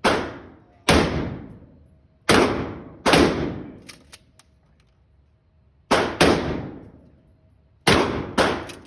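Shotgun firing about eight shots, several in quick pairs, each a sharp blast with a ringing tail that dies away over about a second.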